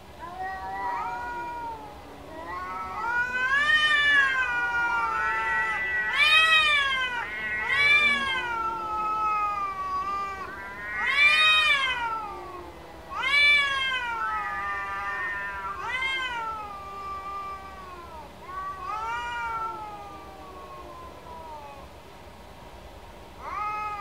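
Cats yowling: about a dozen long, drawn-out calls, each rising and then falling in pitch. Some calls overlap, and the loudest come in the middle stretch.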